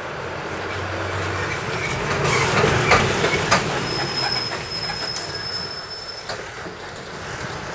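Keihan Katano Line electric train passing close by, its rumble swelling to a peak about three seconds in with a few sharp wheel clicks, then a steady high-pitched wheel squeal for a couple of seconds as it fades away.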